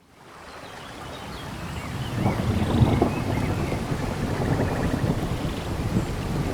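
Rain falling in a tropical forest with a low rumble of thunder, fading in from silence over the first two seconds. Faint bird chirps sound above the rain.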